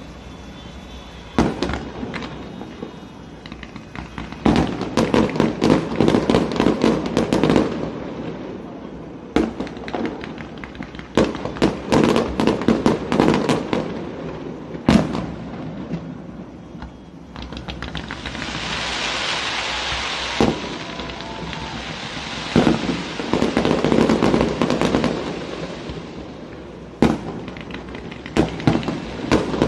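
Fireworks display: aerial shells banging in repeated volleys, each followed by a dense spray of crackle. About two-thirds of the way through, a steady high hiss runs for a few seconds before the bangs and crackle return.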